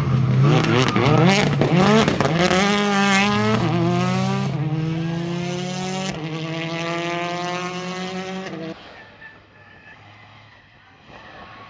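Rally car engine revving hard with quick rises and falls in pitch, then accelerating up through the gears: the pitch climbs in each gear and drops at each of three upshifts. The sound falls away abruptly near the end.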